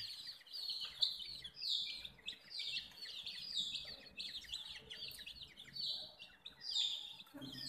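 A brood of baby chicks peeping continuously, many short, high, falling chirps overlapping one another.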